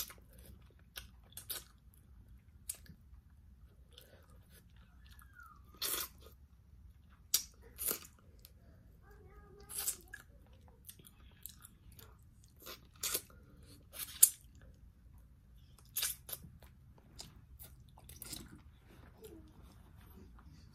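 Close-miked eating sounds: chewing and crunching of lettuce-wrapped grilled fish, with wet mouth smacks and finger-sucking clicks at irregular intervals, the loudest about fourteen seconds in.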